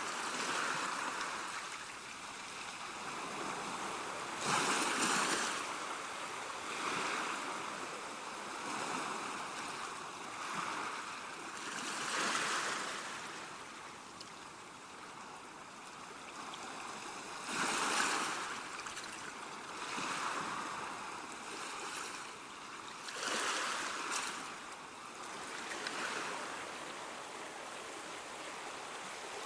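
Ocean surf: waves break and wash in, swelling and fading over and over, with the biggest breaks every five or six seconds.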